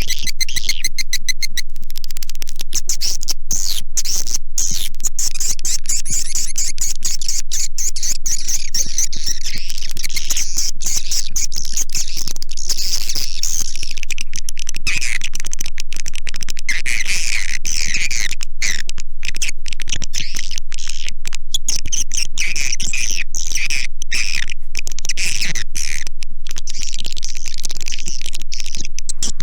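Swiftlet lure recording: a dense, continuous twittering of edible-nest swiftlet calls, with rapid clicks throughout. It is the kind of call sound played in swiftlet houses to draw the birds in.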